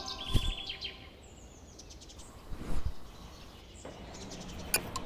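Birds chirping, in short repeated notes and quick falling calls, with a few soft knocks and a sharp click near the end.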